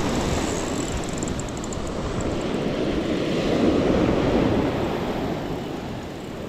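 Surf washing onto a beach with wind rumbling on the microphone, a wave swelling louder about halfway through.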